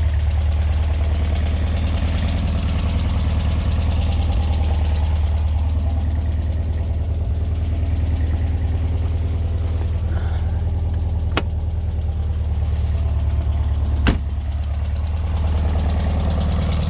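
1967 Volkswagen Beetle's carbureted air-cooled flat-four engine running steadily with a low drone. Two sharp clicks come about eleven and fourteen seconds in.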